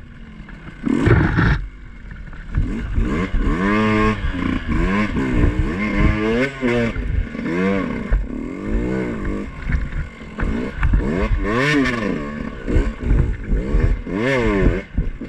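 Two-stroke dirt bike engine revving up and down over and over, its pitch rising and falling every second or two, with a loud clatter about a second in.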